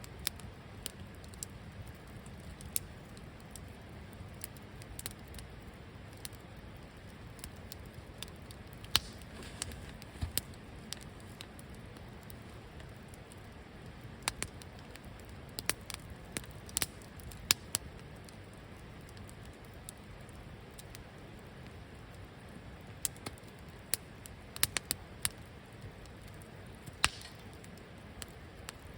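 Wood fire crackling in a campfire stand, with irregular sharp pops and snaps, some in quick clusters, over a low steady background.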